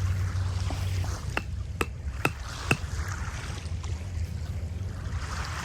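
Wind rumbling steadily on the microphone, with four sharp clicks about half a second apart starting a little over a second in.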